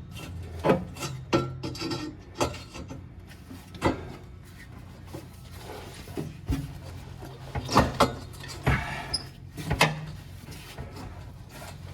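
Scraping, rubbing and scattered knocks of metal exhaust parts being worked into line against each other while a section is fitted onto its new seal gasket, over a steady low hum.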